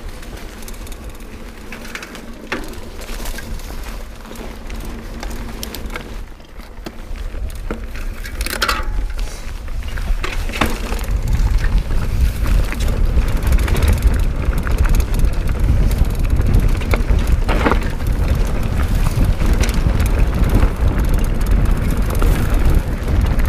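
Mountain bike riding down a dirt trail: tyres rolling over the ground with scattered knocks and rattles. Wind rumbling on the microphone grows much louder about halfway through as speed picks up.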